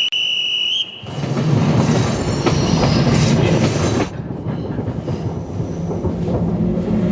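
Passenger train running on the rails. A high steady tone sounds for the first second, then comes a loud rumble with scattered clacks, which drops abruptly to a quieter rumble about four seconds in.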